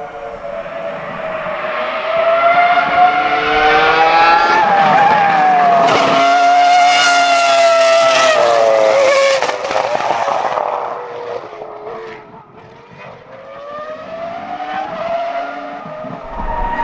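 Cosworth CR-6 3.0-litre V10 of a 2004 Jaguar R5 Formula 1 car at high revs, a high-pitched scream whose pitch swings up and down as it grows loud. It fades about twelve seconds in, then rises again near the end.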